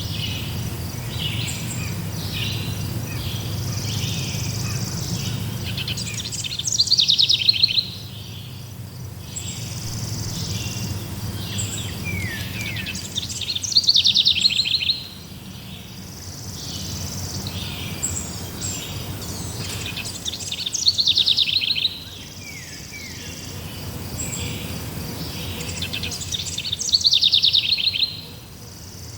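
A songbird singing a loud phrase four times, about every seven seconds, each ending in a rapid downward-sliding trill, over fainter high chirps and a steady low rumble.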